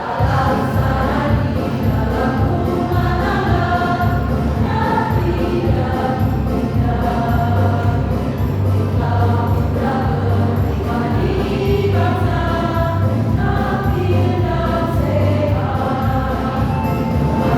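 A choir singing a song together over a steady, pulsing low instrumental accompaniment.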